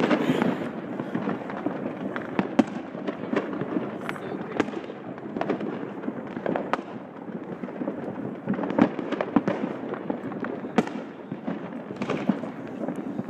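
Fireworks and firecrackers going off all around: many irregular sharp bangs and pops, some much louder than others, over a continuous background of distant popping.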